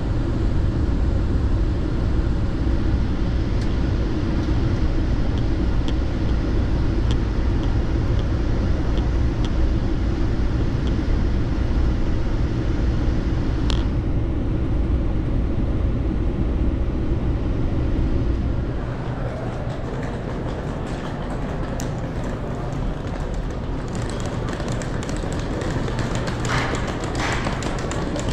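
Steady low rumble of a VIA Rail passenger train running, heard from inside the coach, with a few faint clicks and one sharp tick about 14 seconds in. About 19 seconds in it cuts to the quieter hubbub of a busy station concourse with footsteps.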